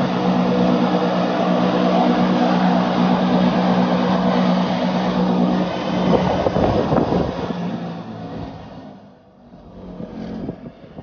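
Wengernalpbahn rack-railway trains passing close by each other: a steady electric-motor and gear hum over a rumble of wheels. About six seconds in, the hum gives way to a rougher rattling rumble, which fades near the end.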